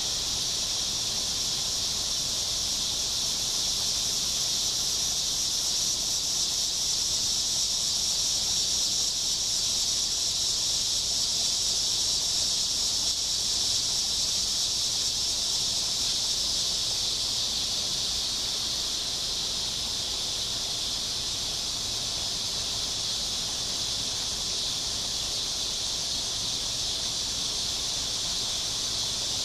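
Steady, high-pitched chorus of insects droning without a break, slightly louder in the middle.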